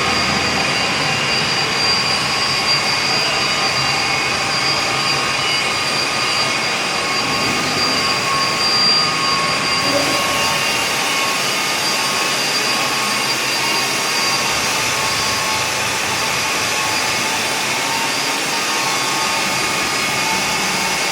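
BFW HF 3.5 milling machine running, a steady machine whine with several high tones held over a motor hum.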